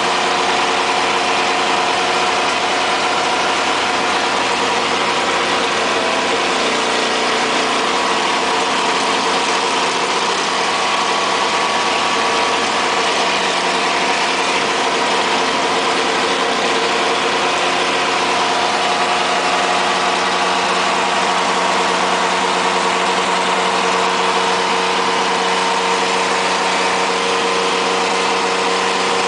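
Turismo Carretera race car's engine running at a steady cruise, heard from inside the cabin, with an even rush of road and wind noise.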